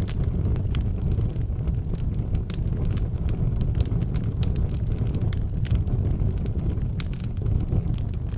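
Outdoor wood fire burning with a steady low rumble and frequent sharp crackles and pops scattered throughout.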